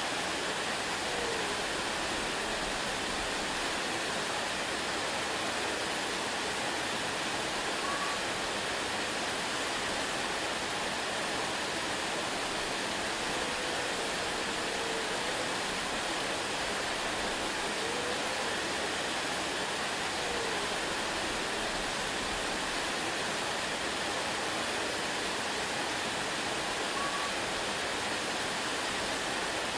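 Waterfall: the steady, unbroken rushing hiss of falling water.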